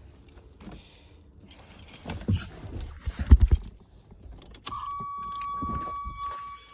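Keys jangling and a few heavy thumps from handling a vehicle ahead of a cold start. A little past two-thirds of the way through, a steady high-pitched electric tone comes on and holds.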